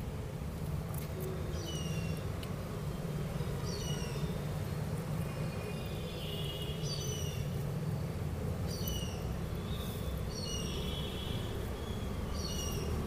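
A bird calling repeatedly: short, falling two-part calls, about six of them, over a steady low rumble.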